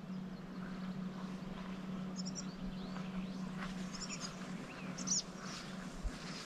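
Small birds chirping outdoors: a few short, high chirps about two, four and five seconds in, over a faint steady low hum.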